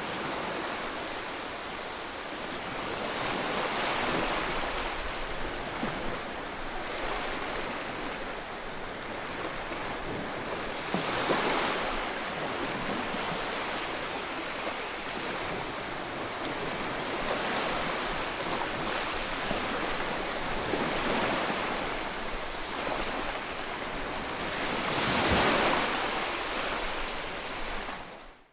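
Ocean surf washing onto the shore, a continuous rush with louder swells as waves break, about 4, 11 and 25 seconds in. It cuts off suddenly at the very end.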